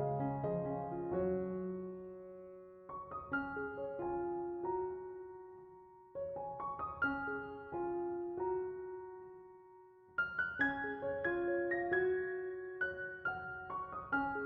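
Soft solo piano music: gentle phrases of struck notes that fade away, each new phrase starting after a short lull.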